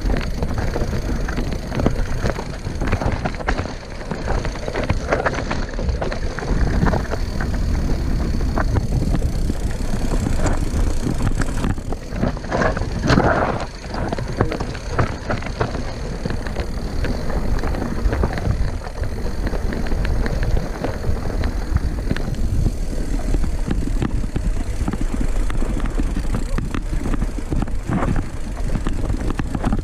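Mountain bike riding over a rough forest trail: tyres on dirt and rock, with the chain, frame and suspension rattling and knocking over bumps above a steady low rumble.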